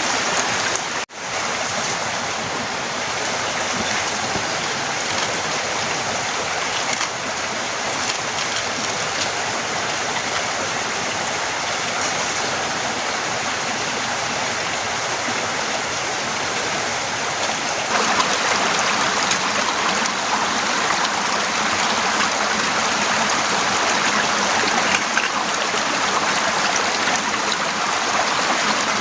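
Torrential rain pouring down in a steady, dense hiss of water. It cuts out for an instant about a second in, and grows louder and harsher about two-thirds of the way through as the downpour intensifies.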